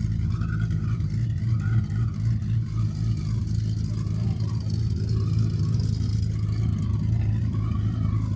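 A car engine running steadily, a low even hum with a faint rhythmic pulse over it.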